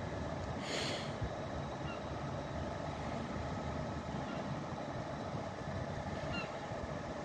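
Steady running hum of a train standing at the station, with a short hiss about a second in.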